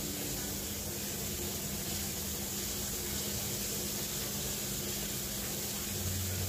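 Fish frying in a pan of hot oil: a steady sizzling hiss, with a faint steady low hum underneath.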